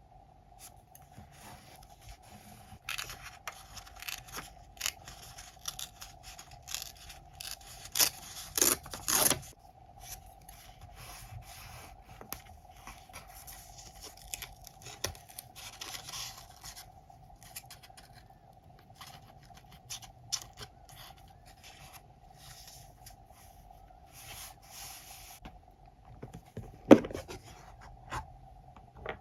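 Scrapbooking desk sounds: paper being handled, scraped and cut, with small clicks and taps. A cluster of louder scraping strokes comes about eight to nine seconds in and a single sharp click near the end, over a faint steady hum.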